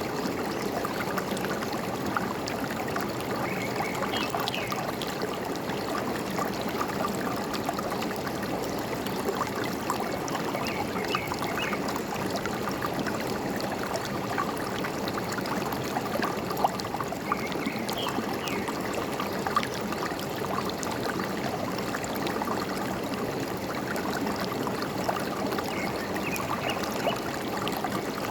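A forest stream flowing and gurgling steadily, with a few brief bird chirps now and then over the water.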